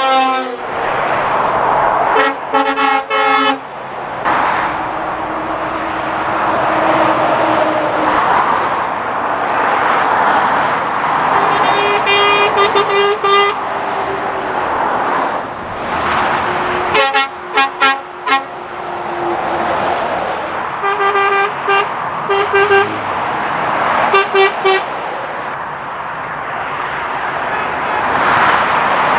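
Lorries and cars passing at speed on a dual carriageway, with the steady rush of tyres and engines. Five times, a vehicle horn sounds in a burst of quick repeated toots, the kind passing lorry drivers give to roadside spotters.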